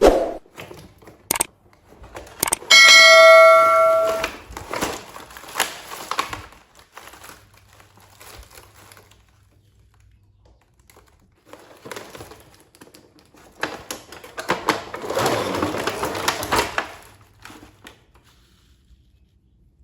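A single bell ding, ringing for about a second and a half, among light clicks. Before and after it come two stretches of rustling and handling noise, typical of packaging being handled as a toy train set is unboxed.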